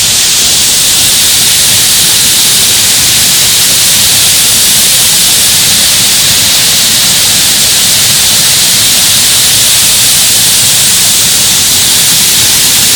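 Loud, steady rushing of a waterfall heard up close, an even hiss strongest in the upper range with no breaks.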